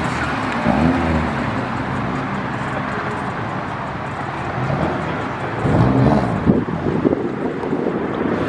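Car engines running over a steady outdoor din. Louder, rising-and-falling engine notes come about a second in and again around six seconds in.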